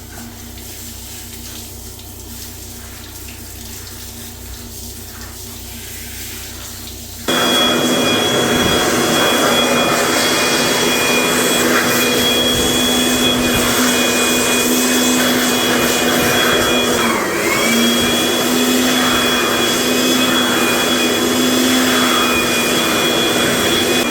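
A fan-driven electric motor, like a vacuum cleaner or blower, switches on abruptly about seven seconds in and runs with a steady whir and whine, briefly dipping in pitch partway through.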